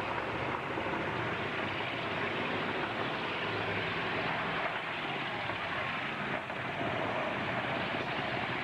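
Demolition-derby pickup trucks' engines running together in a steady, dense din.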